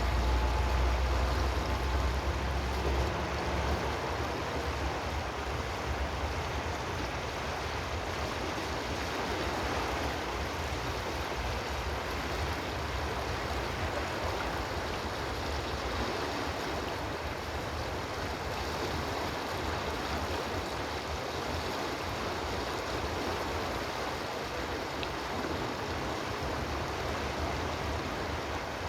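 Steady rushing of running water, with a heavier low rumble in the first few seconds.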